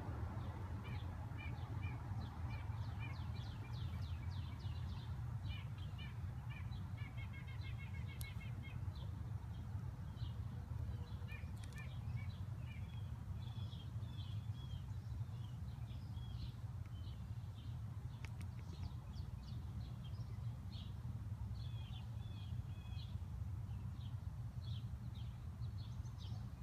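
Small birds chirping and singing repeatedly, with a quick trill of rapid notes about seven seconds in, over a steady low rumble.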